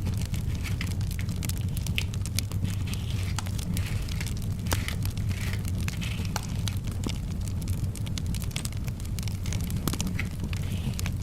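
Fireplace fire crackling: a steady low rumble with frequent sharp pops and snaps scattered throughout.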